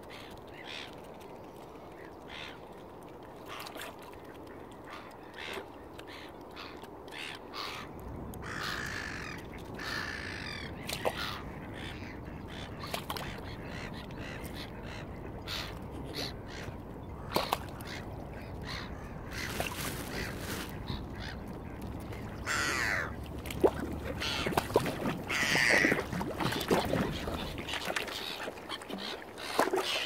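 Outdoor birds calling at irregular intervals, with scattered short clicks, the calls growing busier in the second half. Underneath is a low steady rumble that comes in about a quarter of the way through and stops near the end.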